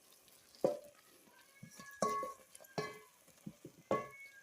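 A metal spoon knocking against a metal cooking pot four times, each clink leaving a short ring, over a faint background.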